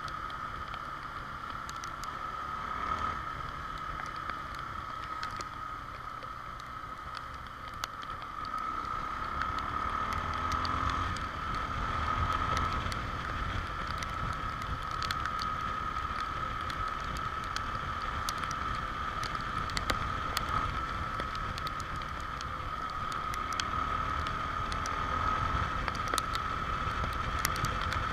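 Honda XR Tornado single-cylinder motorcycle being ridden in the rain: the engine runs with a low rumble under wind noise on the microphone, and its note shifts a little around the middle. A steady high whine is present throughout, with scattered small ticks like raindrops hitting.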